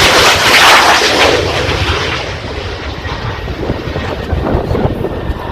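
Aircraft flying past, a loud roar that peaks in the first second and a half, then slowly fades.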